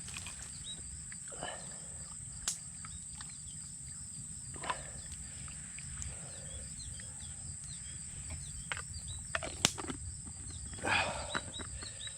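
Steady high-pitched drone of insects with many small repeated chirps. A few sharp snaps come through, and there is a louder rustling burst near the end.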